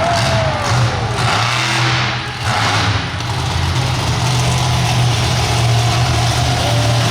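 Monster truck engine running loud, a steady low drone with no clear rise or fall.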